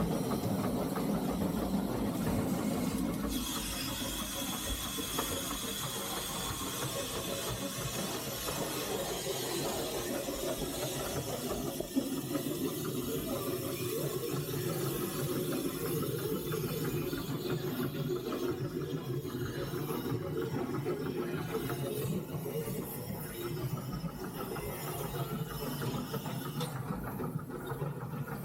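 Steam hissing in the cab of a three-truck Shay geared steam locomotive, over a steady low rumble. The hiss comes up about three seconds in and drops away near the end, with one sharp click about halfway through.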